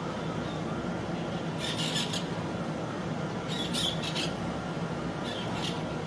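Birds giving short high calls in three brief clusters, about one and a half to two seconds apart, over a steady low background hum.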